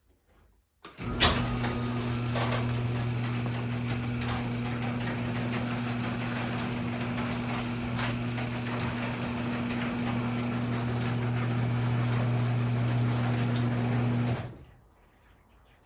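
Electric garage door opener switching on with a click about a second in, its motor humming steadily as it drives the door for about thirteen seconds, then cutting off.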